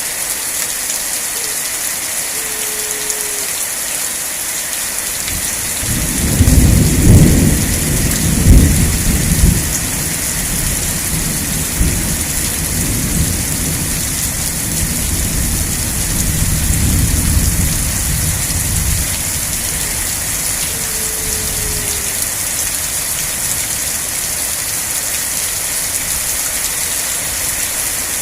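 Steady rain falling, with a long low rumble of thunder that starts about six seconds in, is loudest over the next few seconds, and dies away by about nineteen seconds.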